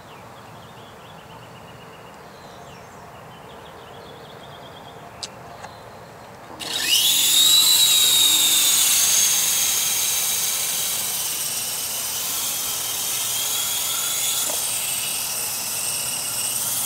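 Protocol Enforcer GX RC helicopter's electric motor and rotors spinning up with a sudden high whine about six and a half seconds in, then running with a steady buzzing whine.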